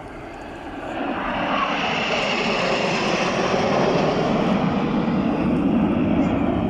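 Aircraft flying past: engine noise swells about a second in and stays loud, its pitch sliding lower as it goes by.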